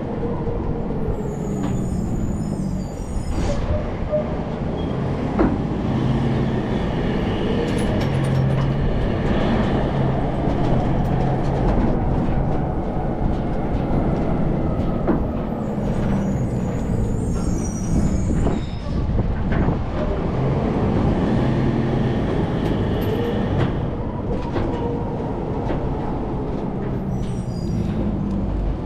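Rear-loader garbage truck's diesel engine running under way, its pitch rising and falling as it pulls and changes speed. Short hisses come about a second in, again midway and near the end.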